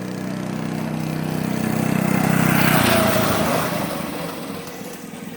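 Small dirt bike engine running as the bike approaches, passes close about three seconds in, and moves away, the engine note dropping in pitch as it recedes.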